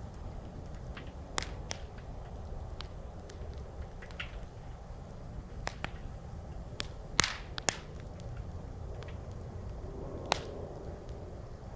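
Wood campfire crackling: scattered sharp pops and snaps over a steady low rumble, with the loudest cluster of pops a little past the middle.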